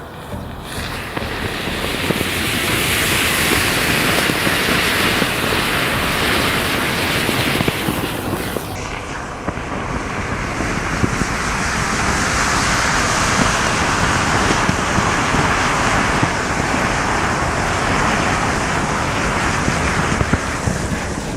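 Mass of matches flaring and burning together: a loud, steady rushing hiss with dense crackling that swells up about a second in and changes abruptly in tone about nine seconds in.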